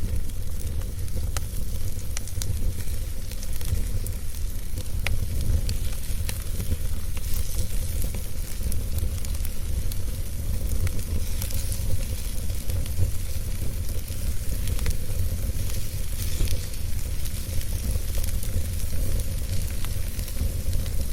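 Wood fire burning, with a steady low rumble and scattered sharp crackles and pops from the burning wood.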